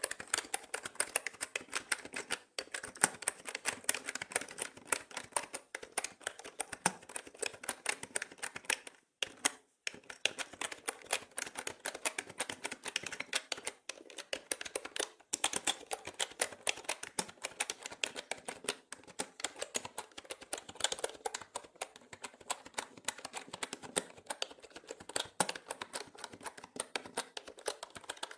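Continuous typing on a mechanical keyboard: dense, fast key clicks, with short pauses now and then, about two and a half seconds in, around nine to ten seconds and near fifteen seconds.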